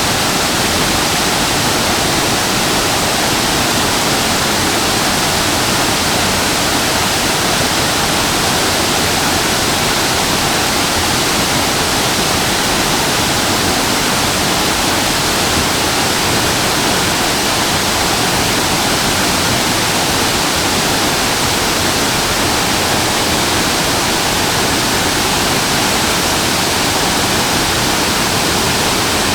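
Waterfall, a steady, even rush of falling water with no breaks or changes.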